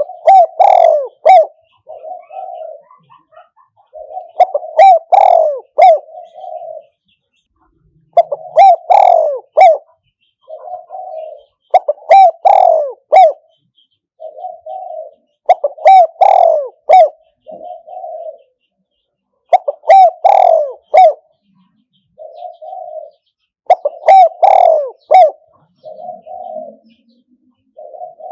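Spotted dove calling as a decoy bird: a phrase of a few loud low coos repeated about every four seconds, with softer coos between the phrases.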